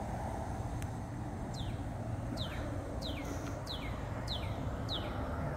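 A bird singing a series of about six quick notes, each sliding downward in pitch, roughly one every 0.7 s, starting about a second and a half in. Under it is a steady low background rumble.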